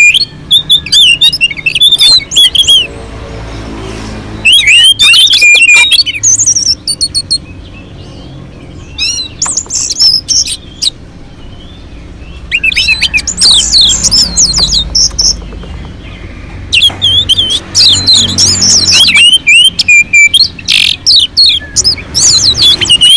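Orange-headed thrush (anis merah) singing loud, rapid runs of varied, sweeping whistled notes, in several bursts separated by pauses of a few seconds.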